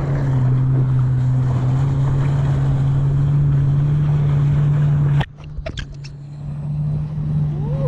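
Jet ski engine running steadily at speed, with a rush of water and wind. About five seconds in the sound drops off abruptly, with a few sharp clicks, then builds back up.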